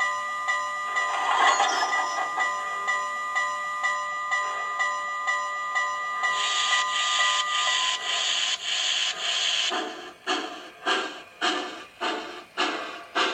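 Digital sound system of an MTH HO-scale Southern Pacific GS-4 4-8-4 steam locomotive model. A bell rings steadily at first; from about six seconds in, steam exhaust chuffs take over at about two per second as the locomotive pulls away.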